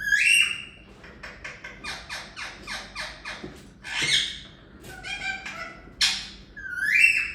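Pet parrot squawking and chattering: a rising squawk, then a fast run of short clicking chirps, about five a second, followed by several harsh screeches.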